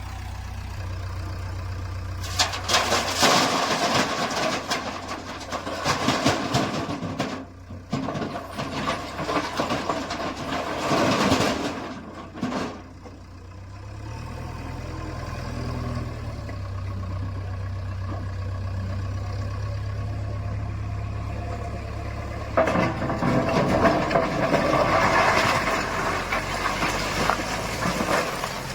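Diesel engine of a JCB 3DX backhoe loader running steadily, with two long stretches of louder working noise as the machine digs and loads: one through the first half, the other near the end.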